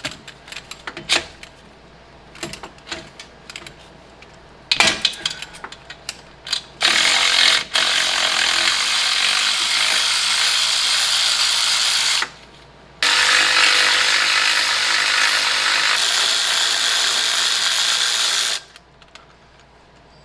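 A few clicks and knocks of tools on metal, then a power tool runs in two long stretches of about five seconds each, with a short pause between, spinning out the engine mount bracket bolts.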